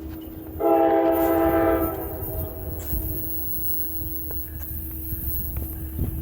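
Nathan K5LA five-chime horn on an approaching PL42AC diesel locomotive sounding one blast of just over a second, starting about half a second in, over the low rumble of the oncoming train.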